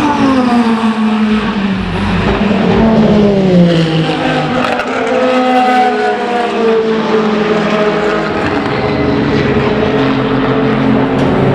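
Race car engines running on a circuit, passing one after another: the first engine note falls in pitch over the first few seconds, a second car comes in about four seconds in and its note also drops, and a steadier engine note holds near the end.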